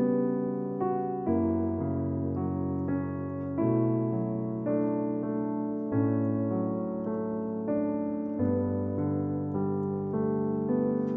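Background piano music: slow, gentle piano chords and melody, each note struck and left to fade.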